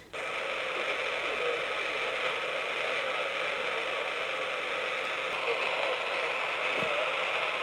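Steady hiss and static from an HF SSB amateur transceiver's receiver, confined to a narrow voice-width band: the radio is open on receive between calls, with band noise and no clear station coming through.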